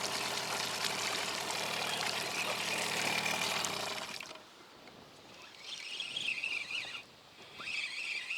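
A small boat's outboard motor running at a steady low hum, with water rushing past the hull, which cuts off abruptly about four seconds in. It is followed by a much quieter stretch of faint wavering higher sounds.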